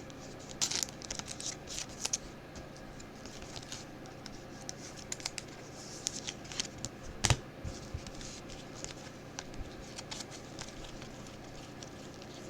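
Football trading cards being handled and flipped through, with light scratchy rustles and small clicks of card sliding on card, and one sharper tap about seven seconds in.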